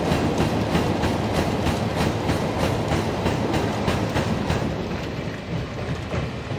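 Long train of Wam 38000 two-axle covered freight wagons rolling across a steel girder bridge, the wheels clacking over the rail joints in a quick, steady rhythm over a rumble. The clacking thins out and fades toward the end as the last wagons pass.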